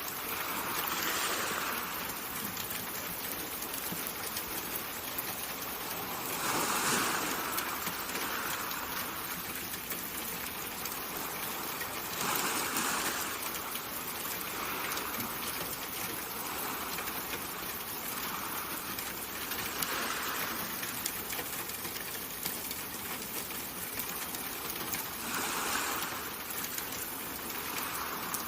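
Steady water ambience: an even hiss like rain or running water, swelling briefly about every five to seven seconds.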